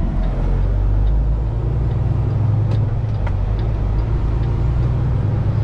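Semi truck's diesel engine running under load, heard from inside the cab as a steady low drone, with a few faint clicks.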